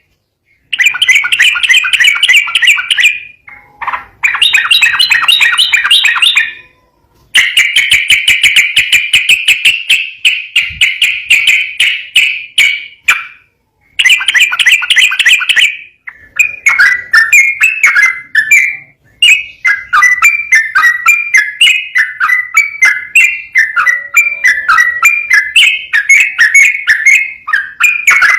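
Sooty-headed bulbul (trucukan) singing loud, fast rolling trills. Several phrases of rapid repeated notes a few seconds long are broken by brief pauses. About halfway through, the song turns into an unbroken, wavering run of notes that rise and fall.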